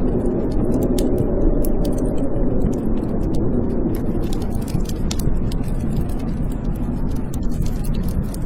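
Blizzard wind howling in a steady low rush, with a wood fire crackling in a fireplace: frequent sharp pops and clicks over the wind.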